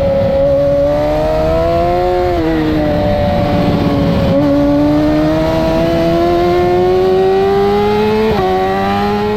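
2008 Yamaha R6's inline-four engine at racing revs, heard onboard: the revs climb, fall away between about two and four seconds in, then climb steadily again until near the end.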